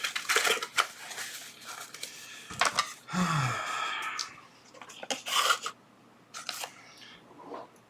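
Plastic packaging rustling and tearing, and small parts of a mini bench clamp clicking and knocking as they are unpacked and handled. About three seconds in comes a longer scraping sound with a brief falling pitch.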